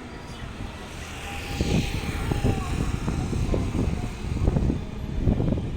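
Passenger train rolling across a railway bridge: a steady low rumble broken by irregular thumps of the wheels on the track.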